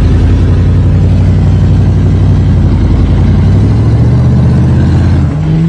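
A vehicle engine working hard under load while towing a stuck car out. It is a loud, steady drone that rises slightly in pitch, then steps up to a higher pitch about five seconds in.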